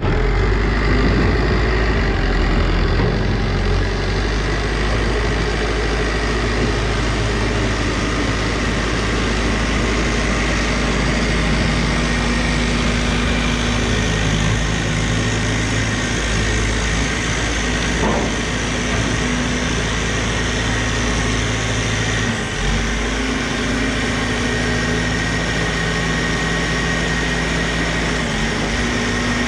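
Tractor engine running steadily at constant speed, with a thin steady high whine above it. The sound dips briefly about three-quarters of the way through, then carries on.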